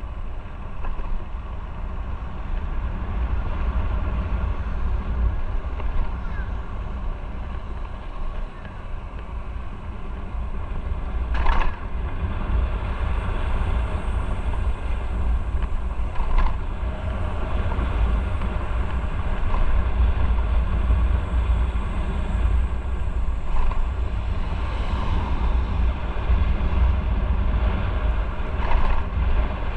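Motorcycle riding in traffic: steady engine rumble mixed with wind noise on the microphone, broken by a few short sharp knocks, the loudest about eleven seconds in.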